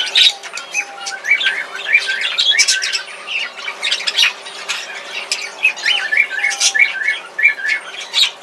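Small cage birds in an aviary chirping and calling together, with two runs of short, evenly spaced calls, one starting about a second in and one about six seconds in.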